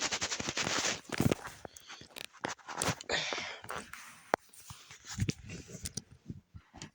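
Lego plastic parts clicking and rattling as the car's front wheel assembly is pried apart by hand, with a quick run of clicks at first, then scattered clicks and a brief rustle.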